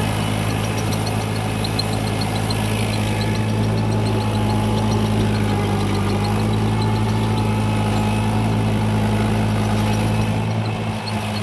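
Tractor engine running steadily at a constant speed, with a fast, regular light ticking over the engine note.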